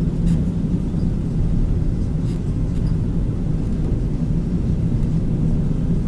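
Steady low rumble of a moving electric intercity train, with a few faint clicks.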